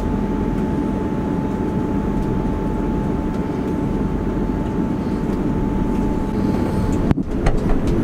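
A passenger train running, heard from inside the carriage: a steady low rumble with a thin steady whine on top that stops about seven seconds in, followed by a brief break and a few clicks.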